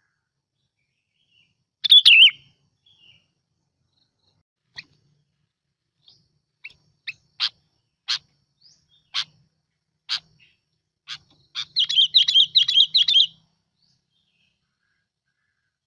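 A bulbul (Vietnamese bông lau) singing. A short warbled phrase comes about 2 s in, then single sharp notes about a second apart, then a fast repeated warbling phrase near the end. It is a lure recording of the species' song.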